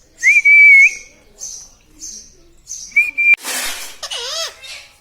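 Pet parrot whistling: a loud, steady high whistle about half a second long, then a shorter one about three seconds in. A harsh screech and wavering, warbling calls follow, over faint high chirps repeating about twice a second.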